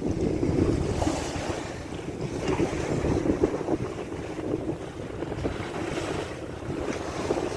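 Wind gusting on the microphone over waves washing around a sailboat, a steady rushing with swells in loudness.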